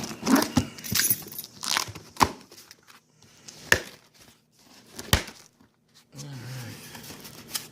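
Cardboard box and packaging being torn open and handled: tearing and crinkling, broken by several sharp cracks and knocks, quieter for the last couple of seconds.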